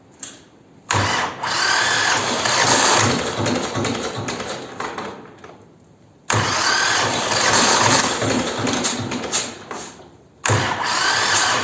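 T-25 tractor's engine being cold-cranked by its starter after sitting all winter: three separate cranking attempts with a regular low chugging beat, each fading off before the next.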